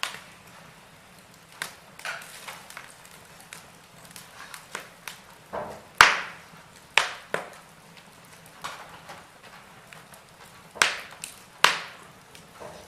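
Wood fire in a fireplace crackling, with sharp irregular pops over a faint hiss; the loudest pop comes about six seconds in, and two more strong ones come near the end.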